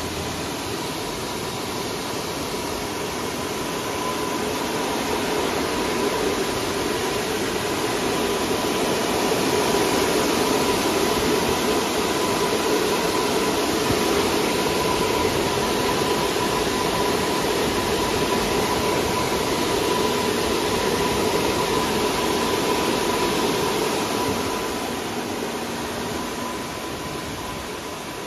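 Industrial air-bubble fruit and vegetable washing machine running: a steady rush of water churned by air bubbles, with a thin steady whine from the machine. It gets louder a few seconds in and eases off near the end.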